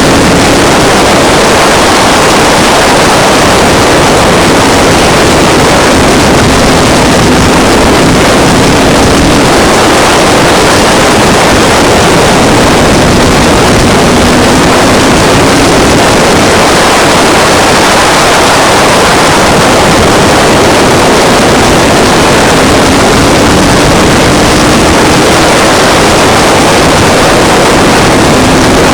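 Race trucks' engines running at speed around a short oval track, loud and distorted, with the engine pitch rising and falling every several seconds as the trucks come past.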